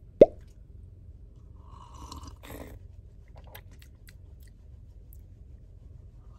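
Close-up eating sounds: chewing with small clicks and crunches, and one sharp knock just after the start.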